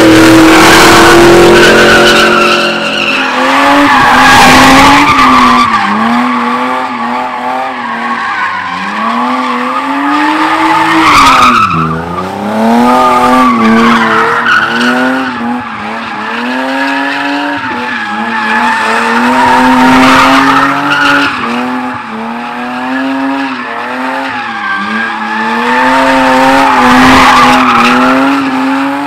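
A car engine revving hard, its pitch rising and falling over and over, while the tires spin and screech in loud surges every several seconds.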